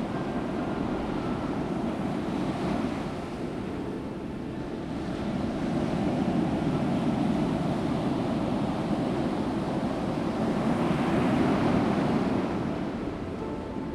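Ocean surf: waves breaking and washing up the beach as a steady rush that builds about five seconds in, peaks near the end and then eases off.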